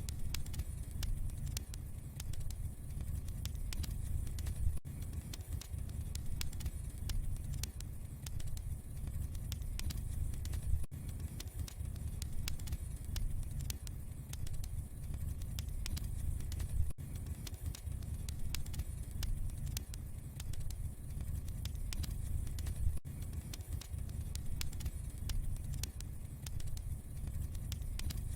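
Wood fire burning in a fireplace, crackling with a steady stream of small pops and snaps over a low rumble, with a sharper pop about every six seconds.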